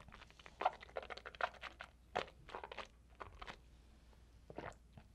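Faint close-miked chewing: a quick run of short, crisp clicks and crunches for about three seconds, then a couple more near the end.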